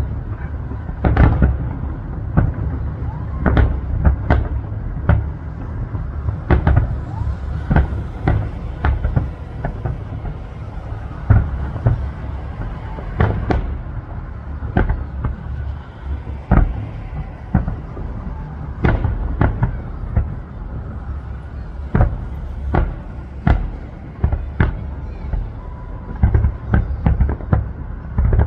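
Aerial fireworks bursting in quick, irregular succession: sharp bangs, often several a second, over a continuous low rumble of further bursts.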